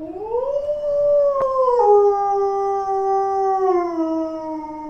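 A dog howling: one long howl that rises at the start, holds, steps down in pitch about two seconds in, then slides slowly lower.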